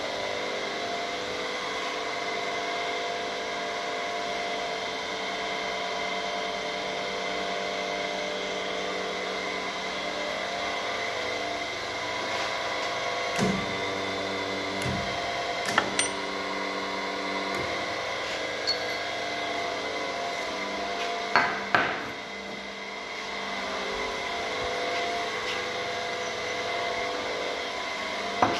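Universal testing machine running with a steady hum while it pulls an St37 steel plate in a tensile test. Several sharp cracks come from the loaded specimen and grips, the loudest two close together about three-quarters of the way through.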